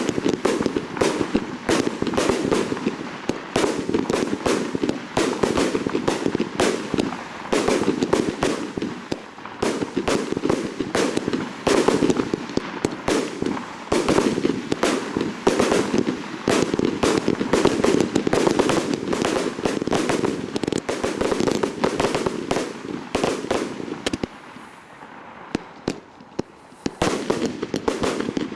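Fireworks display: a dense, rapid barrage of shells and cakes firing and bursting, several bangs a second, easing off for a few seconds near the end before picking up again.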